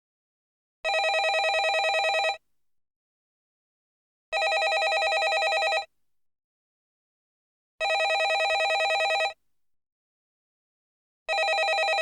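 Landline telephone bell ringing in bursts of about a second and a half, repeating every three and a half seconds with silence between: three full rings, and a fourth starting near the end.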